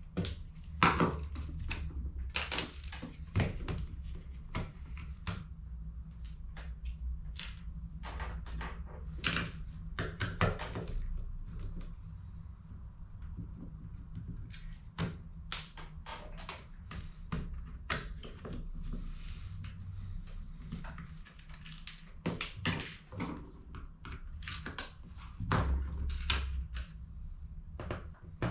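Hands handling and working on HP CE285A laser toner cartridges: a run of irregular plastic clicks, taps and knocks, a few of them sharp and loud, over a low steady hum.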